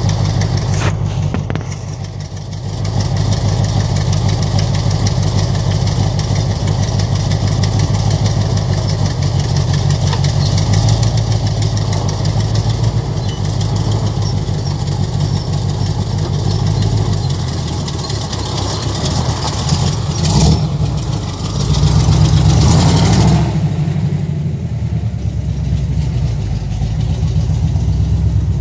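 An engine running steadily, with a brief louder stretch a little over three-quarters of the way through.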